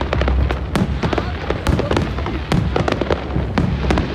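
Aerial fireworks bursting in rapid succession: many sharp cracks and pops, several a second, over a continuous low rumble of shell bursts.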